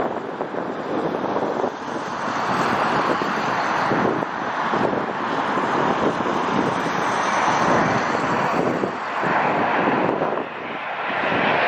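Boeing 787 airliner's jet engines on landing approach: a loud, steady rushing jet noise that dips briefly about two seconds in and again near the end.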